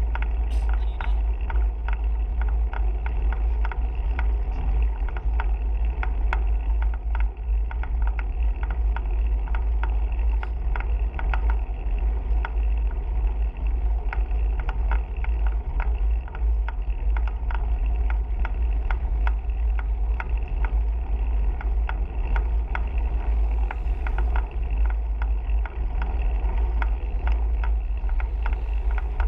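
Wind buffeting the microphone during a bicycle ride: a steady low rumble with tyre and road noise and frequent small clicks and rattles.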